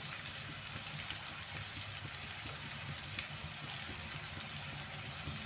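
Sliced onion, carrot and green capsicum strips sizzling steadily in hot oil in a frying pan.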